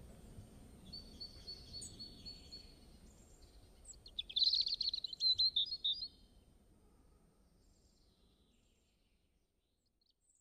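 Small birds calling: a thin, steady high whistle about a second in, then a louder run of rapid chirping trills about four seconds in, over a low background rumble that fades away.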